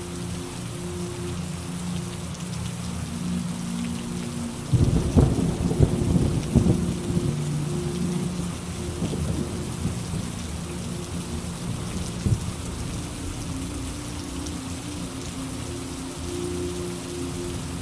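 Steady rain falling, with a crack of thunder about five seconds in that rumbles on for two or three seconds, and a shorter thunder knock a few seconds later.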